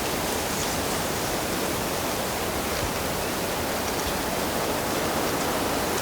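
Steady rush of flowing water, even and unbroken, with faint brief high splashes here and there.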